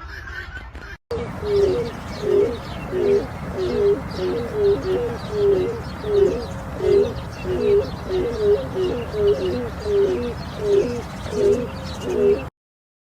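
Grey crowned crane calling over and over, more than a dozen calls at about one every two-thirds of a second, over a steady low background hum. The recording breaks off and restarts about a second in.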